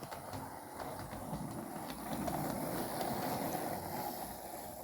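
Bachmann Branchline Class 25 model diesel locomotive running along the main line: a steady low motor and wheel rumble that swells a little in the middle, with a few faint clicks. Its running is a little sticky.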